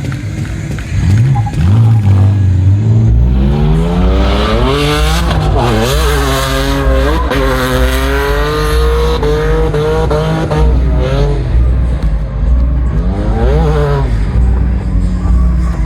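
Car engine revved hard again and again, its pitch sweeping up and falling back, with a heavy low thudding bass underneath from about three seconds in.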